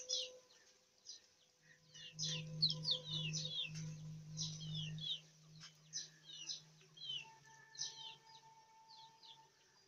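Small birds chirping, with many short high chirps coming one after another. A low steady hum runs underneath from about two to five seconds in.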